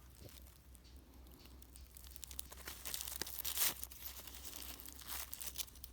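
Aluminium foil being unwrapped by hand, crinkling and tearing in quick crackles that grow busier and louder about halfway through.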